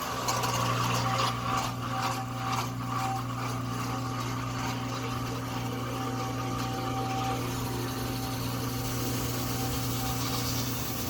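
Dishwasher's 1/8 hp reversing induction motor and pump starting and running with a steady hum, throwing water around the open tub. Splashing and knocking come in the first few seconds, then steadier spraying.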